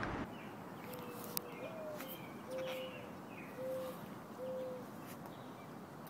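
Bird calls: four low, steady whistled notes, the first rising at its end, with faint higher chirps between them and a single sharp click about a second and a half in.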